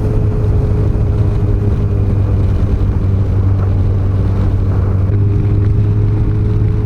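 Yamaha FJR1300's inline-four engine running at a steady cruise on a mountain climb, a constant low drone with wind and road rush over it.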